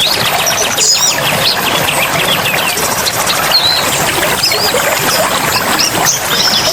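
Many small birds chirping, twittering and whistling at once, over a steady rush of running water.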